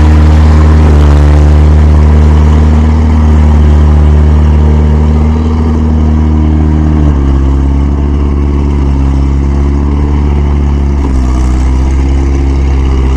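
A farm machine's engine running loud and steady under load. Its pitch steps down about seven seconds in and shifts again near the end.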